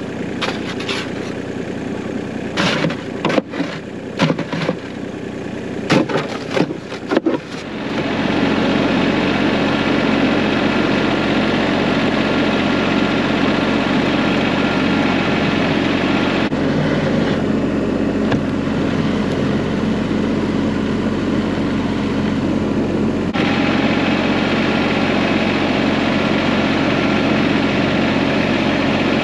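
Irregular knocks and clatter, then from about eight seconds in a vehicle engine runs steadily and louder.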